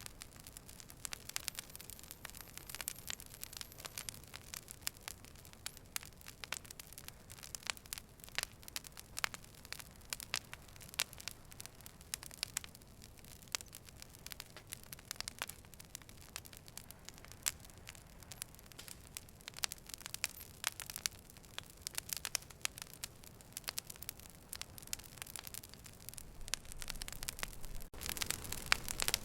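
Fire burning with dense, irregular crackles and pops over a soft, steady rush. About a second before the end the sound dips briefly and the low rush comes back louder.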